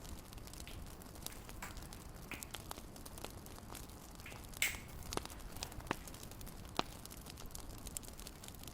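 Fireplace fire crackling: irregular small snaps and pops over a low hiss, with one louder pop a little past halfway.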